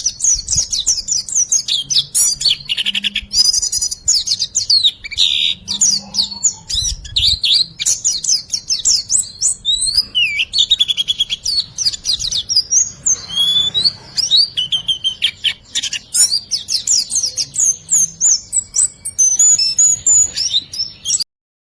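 Small songbird's fast, unbroken run of high chirps and quick whistled sweeps, the 'riwikan' song used as a training recording (masteran) to coax a quiet bird into singing. It cuts off abruptly near the end.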